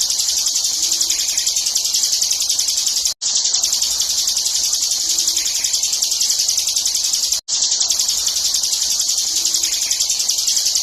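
Ciblek (prinia) singing a rapid, unbroken high-pitched chattering song in the 'ngebren' style, at about five pulses a second. The recording is a loop: it cuts out for a split second about three seconds in and again at about seven and a half seconds.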